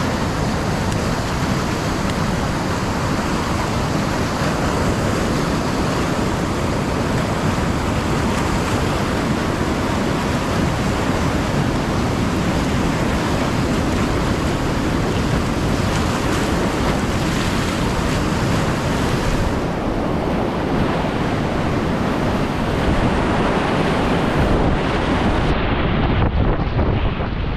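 Rushing whitewater of a river running high, a steady loud roar of rapids with wind buffeting the microphone. The sound turns duller about two seconds before the end.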